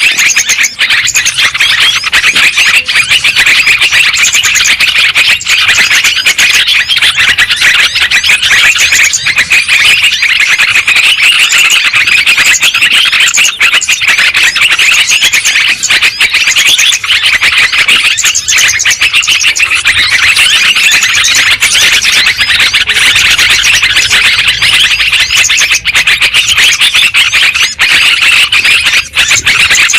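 Yellow-vented bulbuls (trucukan) calling and chattering in a dense, continuous chorus of overlapping chirps, played as a loud, unbroken lure recording.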